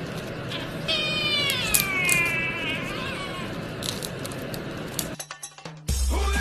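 A cat meowing: a long drawn-out meow that falls in pitch about a second in, then a shorter meow. Near the end the sound cuts off and music begins.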